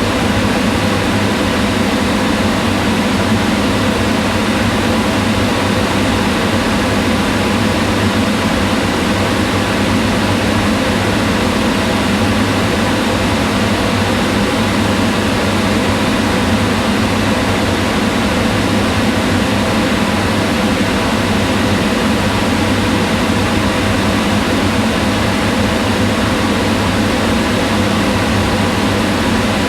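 Kitchen range hood's extractor fan running at constant speed: a steady whooshing of air with a low hum under it.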